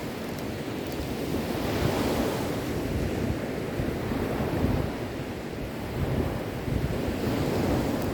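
Sea waves washing onto the shore. A steady surf rush swells twice, about five seconds apart, as waves break.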